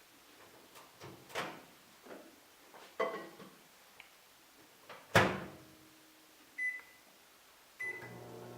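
Microwave oven in use: several knocks and clunks, the loudest about five seconds in, then two short high beeps from its keypad, and near the end the oven starts running with a steady hum.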